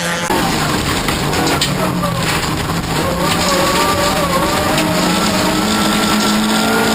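Racing car engine running hard, its pitch wavering up and down as the revs change, then holding a higher steady note near the end, with a few sharp knocks over it.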